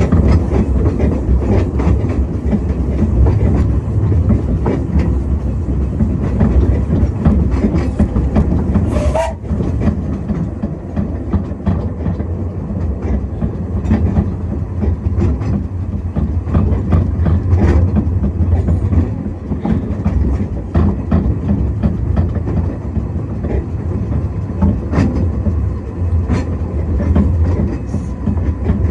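Narrow-gauge railway carriage running along the track: a steady low rumble with wheels clicking and rattling over the rails.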